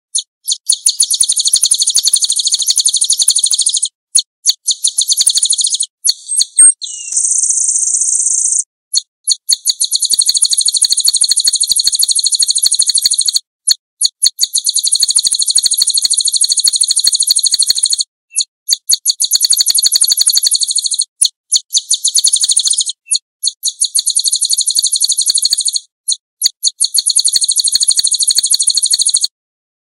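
White-eye (pleci) singing long, very rapid high trills in runs of a few seconds, broken by short pauses, with a steadier buzzy phrase about seven seconds in.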